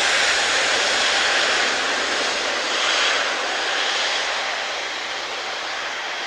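Large four-engined jet airliner taking off, its engines at takeoff thrust: a loud, steady rush of noise that slowly fades from about four seconds in as the aircraft moves away.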